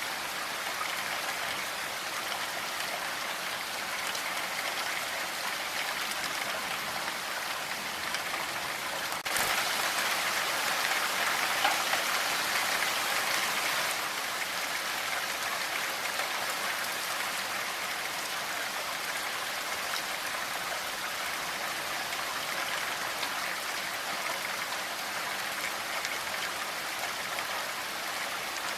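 Steady rain falling, an even hiss of many drops. About nine seconds in a sharp click marks a jump to a louder stretch of rain that lasts about five seconds before settling back.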